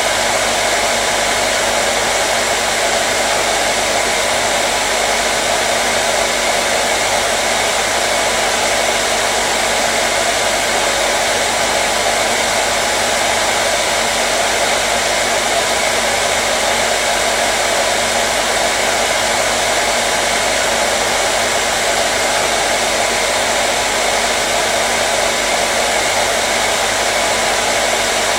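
Hair dryer running continuously, a steady blowing whoosh with a faint motor hum under it, unchanging throughout.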